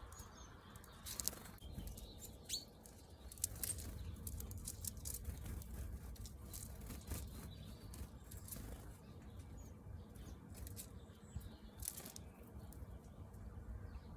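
Blue tits and great tits busy at a bird table: a scatter of short wing flutters and taps, with a few brief high chirps, over a low steady rumble.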